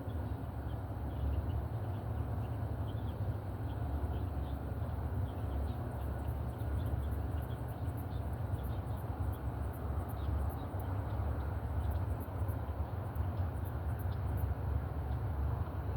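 Outdoor ambience on a walk: a steady low rumble with short, high chirps repeating over it, faster and higher from about six seconds in.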